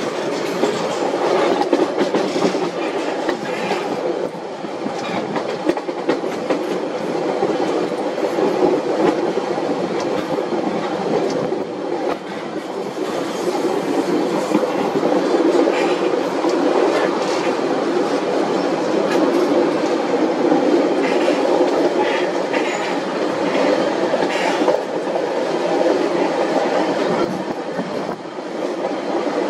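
Passenger train running along the track, heard from aboard: a steady rumble of wheels on rails with occasional sharp clicks.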